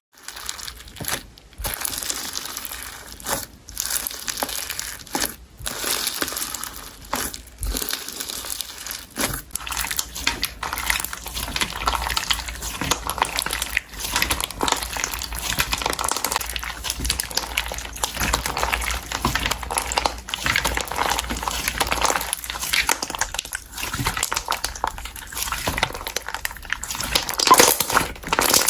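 Slime being squished and stretched by hand: a dense, continuous crackling and sticky popping, with a few brief pauses in the first several seconds.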